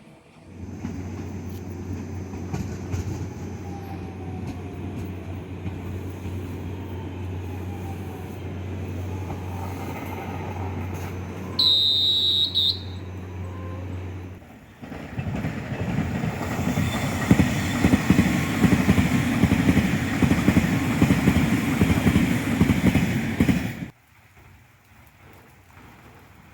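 Trains at a station: first a steady low running hum, with one short high-pitched horn blast about twelve seconds in; then a train passing close by, loud and rumbling with a rapid clatter, for about nine seconds before the sound cuts off suddenly.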